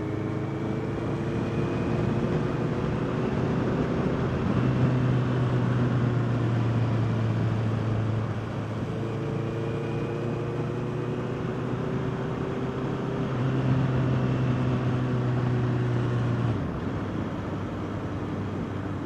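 Honda CBR650R inline-four engine running under way, with wind rush. The engine note climbs slowly twice as the bike pulls, then falls back near the end as the throttle eases.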